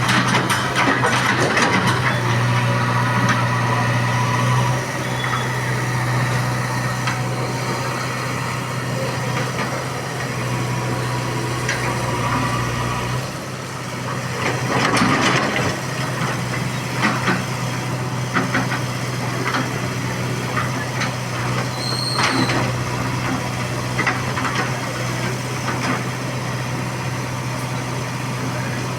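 Diesel engine of heavy earthmoving machinery running steadily, with scattered knocks and rattling clatter over it and a louder stretch of clatter about halfway through.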